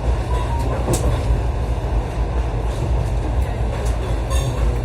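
Moving passenger train heard from inside the carriage: a steady low rumble of wheels on rails, with a few sharp clicks, one about a second in and another near the end.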